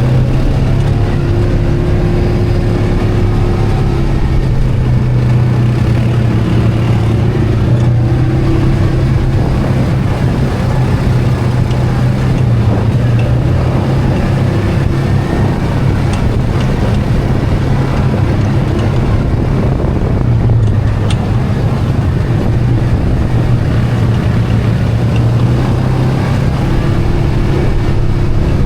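ATV engine running steadily while riding, its pitch holding fairly even with small rises and dips.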